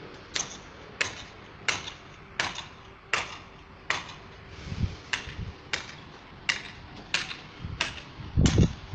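Steady hammering: sharp strikes about every two-thirds of a second, with a couple of low thuds about halfway through and near the end.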